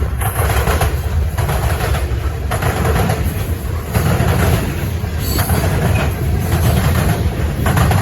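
Freight cars of a CN potash train rolling past on the rails: a loud, steady rumble of steel wheels on track, swelling and dipping about once a second as car after car goes by.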